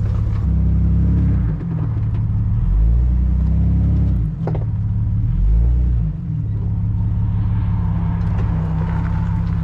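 Classic car's engine running under the low, steady drone of the drive, picking up revs briefly three times as the car is eased along a rough desert track.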